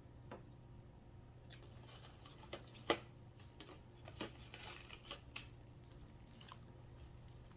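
Mealtime handling noises: scattered small clicks and taps, one sharper about three seconds in, and a brief crinkling rustle near the middle, over a faint steady hum.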